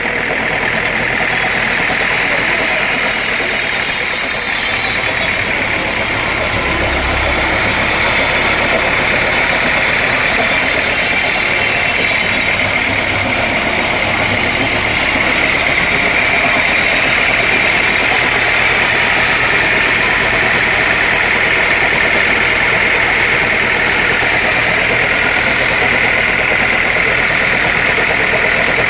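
Sawmill machinery running steadily, engine noise with a constant high-pitched whine over it.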